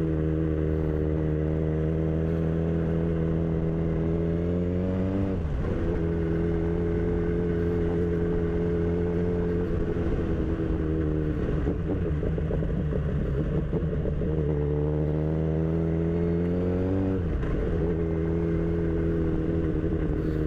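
Kawasaki Z1000 inline-four engine under way, its pitch climbing steadily as it accelerates and then dropping sharply at an upshift, twice: about five seconds in and again near seventeen seconds.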